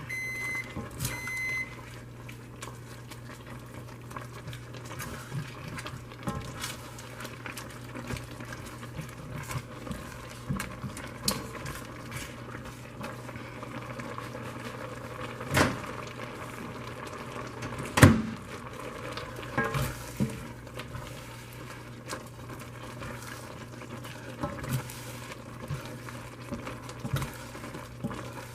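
Noodles simmering in teriyaki sauce in a pot, bubbling, with a steady low hum underneath. A spoon stirs and knocks against the pot now and then, the two loudest knocks a little past halfway. A short electronic beep sounds right at the start.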